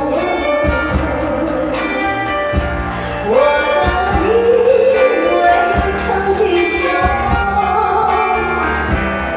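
A singer singing a slow Chinese song over amplified backing music with a steady drum beat.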